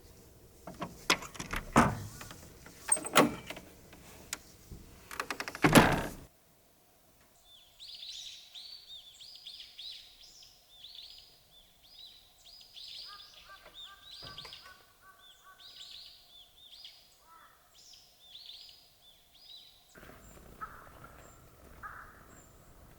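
A run of sharp knocks and clicks for about six seconds, the loudest near the end of the run. After a cut, small birds chirping in quick repeated high calls, with a few short whistled notes in the middle.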